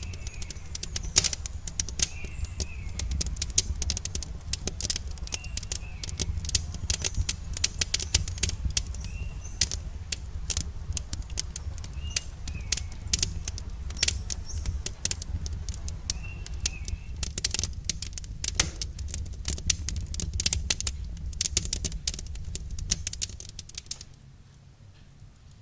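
Campfire crackling with dense, irregular pops and snaps over a low rumble of burning, and short bird chirps repeating every couple of seconds. Near the end the crackling drops away sharply and the sound goes much quieter.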